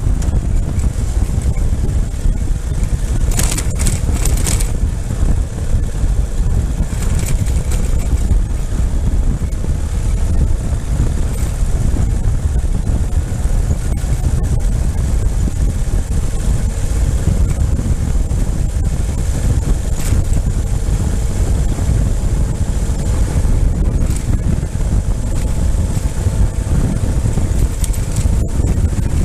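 Ural motorcycle on the move: steady wind rush buffeting the microphone, with the engine running underneath.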